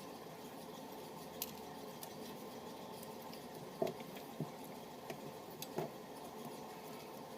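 A few light clicks and taps of small tools on phone parts during a phone repair, the sharpest about four seconds in, over a steady low background hum.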